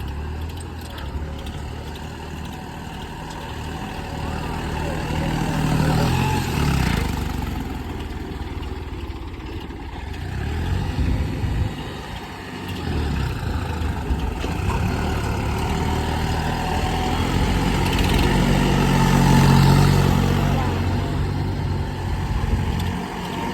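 Diesel tractor engines running hard under load in a tractor tug-of-war, the revs rising and easing back twice, a few seconds in and again near the end.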